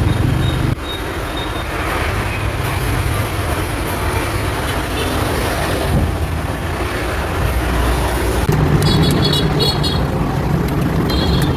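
Steady street traffic noise with a low rumble of passing vehicles, and a few short high-pitched beeps about nine seconds in and again near the end.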